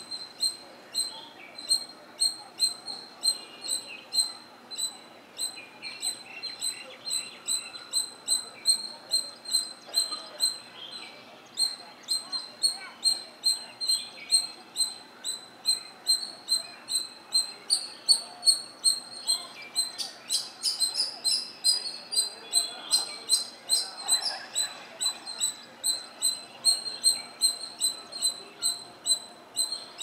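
Birdsong: a small bird repeats one short, high chirp about twice a second, steadily, while other birds call briefly a little past the middle.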